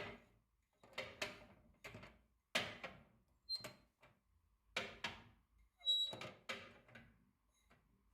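A series of sharp knocks and clunks, about ten in eight seconds, from objects or doors being handled in a small room. Twice there is a brief high ring.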